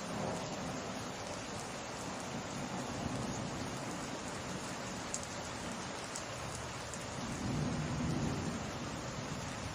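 Steady summer rain pattering down, with low rumbles of distant thunder swelling at the start and again near the end.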